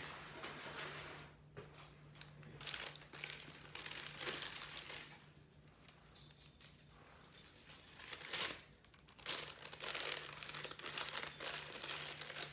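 Paper takeout packaging crinkling and rustling in repeated bursts as the delivered food order is handled and unpacked.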